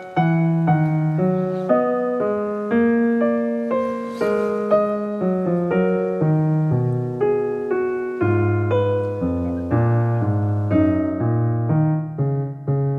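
Background piano music: a flowing run of notes, each struck and fading, over lower bass notes.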